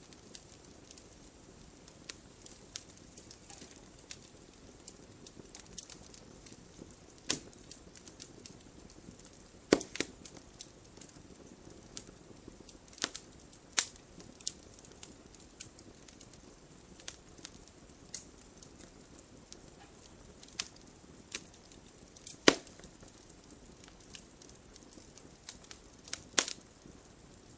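Wood fire crackling: irregular sharp pops and snaps over a low, steady hiss, with a few louder pops scattered through.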